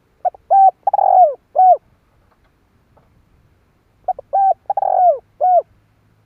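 Spotted dove cooing: two phrases, each a few short coos and one longer coo that falls in pitch at its end, the second phrase about four seconds after the first.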